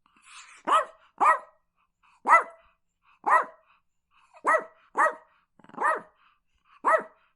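Chihuahua barking: eight short barks spaced about a second apart, two of them in quick pairs, each rising and falling in pitch.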